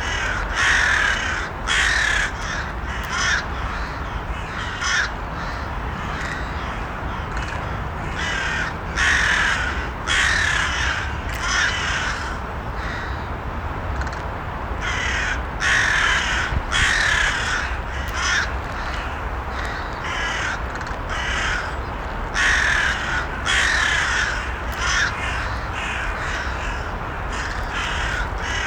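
Crows cawing over and over, short harsh calls coming every second or two, over a steady low background noise.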